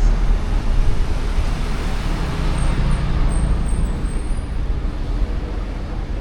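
Street traffic: a motor vehicle's low rumble, fading gradually.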